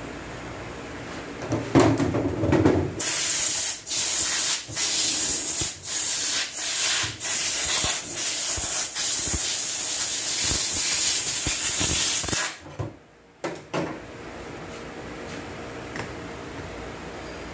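A short clatter, then a string of about ten loud hissing bursts of compressed air from a blow gun, triggered on and off over nine seconds, with two brief puffs after a pause.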